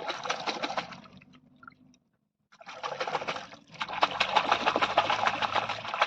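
River water splashing and trickling close by, a dense crackle of small splashes, cut off to silence for a moment about two seconds in before resuming.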